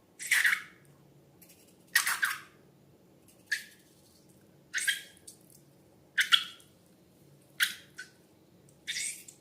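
Wet slime squelching and crackling as it is squeezed and worked by hand, in short bursts about every second and a half, seven times.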